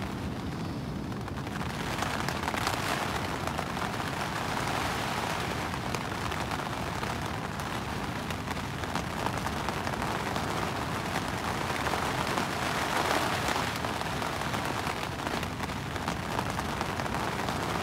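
Rain pattering steadily on a dome tent's rain fly, heard from inside the tent, the downpour swelling and easing in strength.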